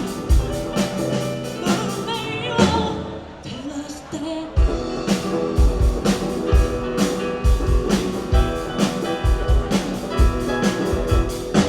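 Live band music: drum kit keeping a steady beat with kick drum and cymbals under bass, guitar and singing. The drums drop out briefly about three and a half seconds in, then the full band comes back.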